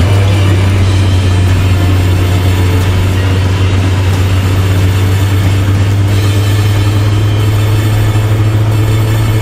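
Suzuki GSX400F's inline-four engine running steadily under way, a low steady hum with its pitch creeping slightly upward in the second half.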